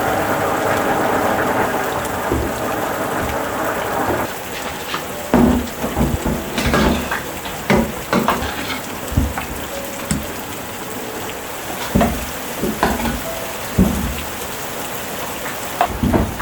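Rain falling steadily. From about four seconds in, a quieter hiss is broken by scattered, irregular taps of drops striking a nearby surface.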